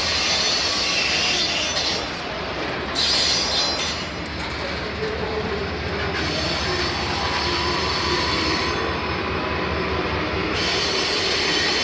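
Freight train of covered hopper cars rolling past close by: steady rumble and clatter of steel wheels on the rails, with a faint wheel squeal in the second half.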